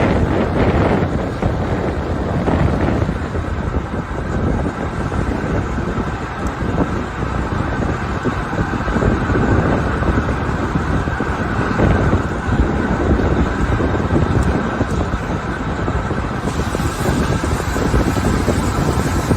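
Wind buffeting the microphone of a moving bicycle, over steady city traffic noise.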